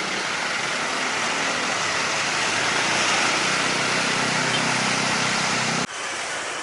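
Jet airliner's engines passing on landing approach: a loud rushing noise with a low hum underneath that swells to a peak about three seconds in, then drops off abruptly near the end.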